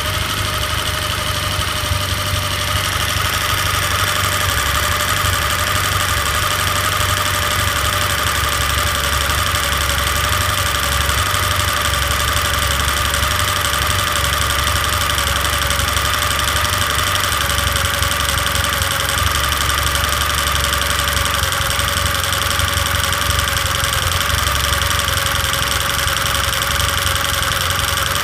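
Engine idling steadily with a rapid knocking running through it.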